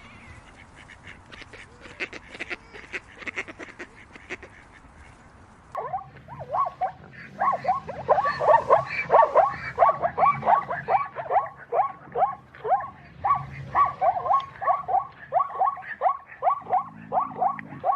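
Ducks quacking as a group: faint scattered calls at first, then from about six seconds in a loud, continuous run of short quacks, several a second.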